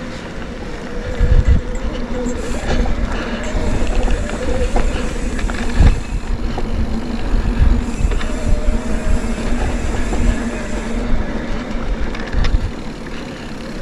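Mountain bike riding over a rough dirt trail: a continuous rumble of tyres with the bike rattling, and a couple of hard knocks over bumps, about a second and a half in and about six seconds in.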